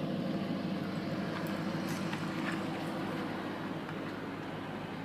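2008 B7 Audi RS4's 4.2-litre V8 running steadily at idle, with no revving.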